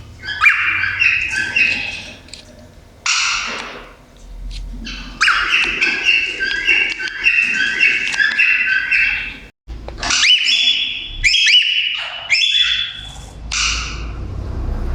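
Pet cockatiel chattering in bursts of warbling chirps, with a harsh squawk about three seconds in, then a series of rising whistles from about ten seconds.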